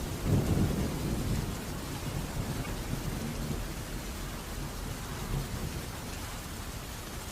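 Thunderstorm: a rumble of thunder dying away over the first couple of seconds, over steady rain.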